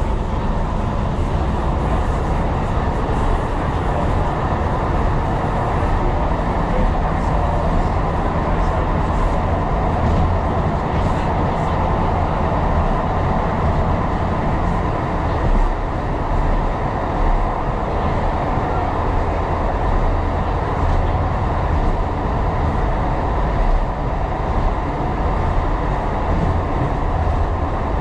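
A Tyne and Wear Metro train running along the track, heard from inside the cab: a steady rumble and rail noise with no letup.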